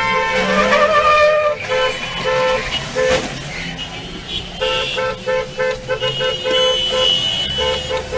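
Car horn honking: a longer blast at the start, then a rapid run of short, repeated toots.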